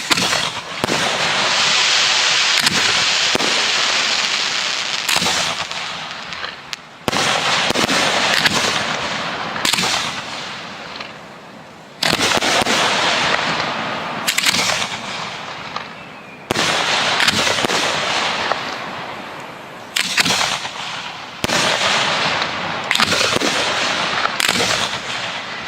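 Professional fireworks going off in quick succession: about a dozen sharp bangs, each followed by a long, fading crackle.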